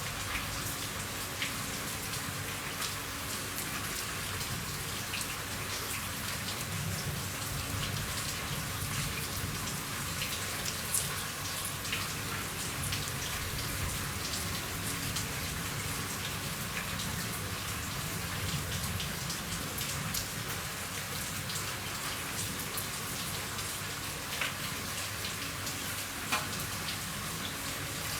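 Steady rain falling on a roof: an even hiss, with now and then a single heavier drop ticking out above it.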